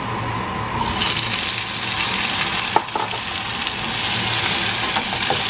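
Cut cherry tomato wedges dropped into a frying pan of hot oil, sizzling: a hiss that starts suddenly about a second in and then holds steady, with a sharp knock or two near the middle.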